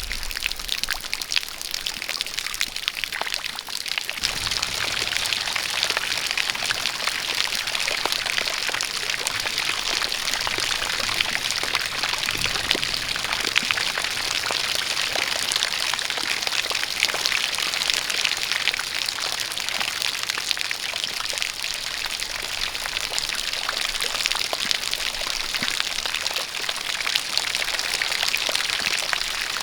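Rain falling together with a stream of water pouring and splashing: a dense, steady patter and hiss that fills out about four seconds in and then holds even.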